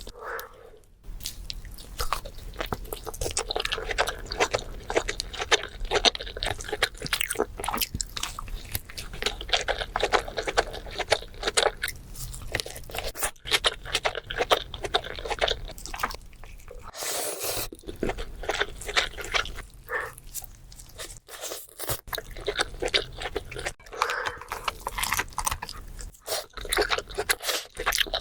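A person eating seafood up close: a steady run of chewing and crunching, broken by a few brief pauses.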